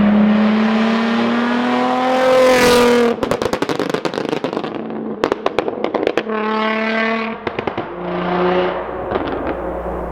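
2006 Infiniti G35 Coupe's 3.5-litre VQ35DE Rev-Up V6, through test pipes, a Y-pipe and a Tomei single-exit exhaust, revving up with rising pitch for about three seconds. When the throttle closes it cuts off into a rapid string of exhaust pops and crackles. Two shorter revs follow, the first about six seconds in and the second near eight seconds, each also ending in crackles.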